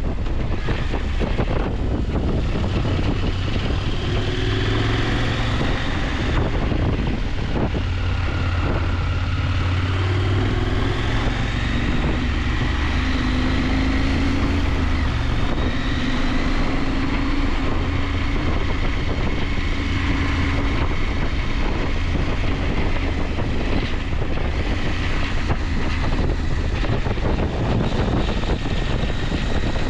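KTM 890 Adventure's parallel-twin engine running under way, its note rising and falling gently with the revs, over a steady rush of wind on the microphone.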